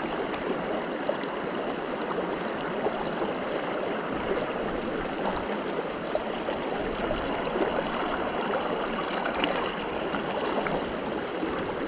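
Steady rushing of a river running high after floods, an even flowing-water noise.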